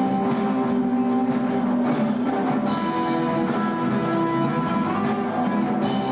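A band playing music led by guitar, with steady sustained notes throughout.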